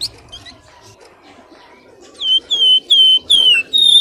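Pelamboyan bird call: faint scattered chirps, then from about two seconds in a series of five loud, high whistled notes in quick succession, each dipping and falling slightly in pitch.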